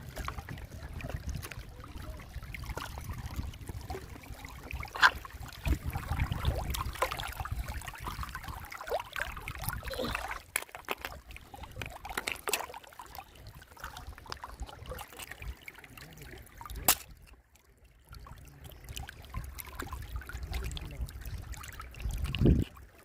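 River water flowing and trickling, broken by a few sharp clicks or knocks.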